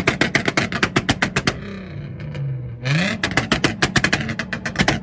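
Nissan engine held on a two-step launch-control rev limiter, the exhaust crackling in a rapid, even run of pops, about ten a second. About one and a half seconds in, the limiter lets go and the revs sag. Near three seconds they climb back and the popping resumes.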